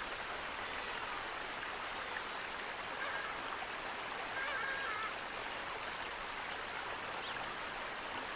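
Steady rush of running water, with a bird's short warbling calls about three seconds in and again around the middle.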